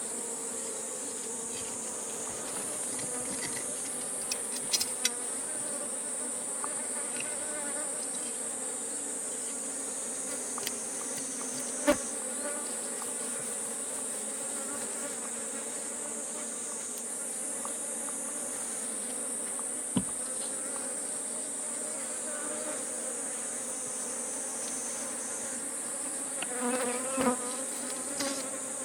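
Bees buzzing in a steady hum around an opened wild beehive, over a continuous high-pitched insect chorus. Two sharp clicks sound about 12 and 20 seconds in.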